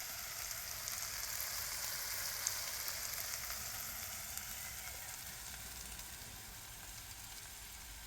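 Food frying in a pan, a steady sizzle that fades slightly toward the end.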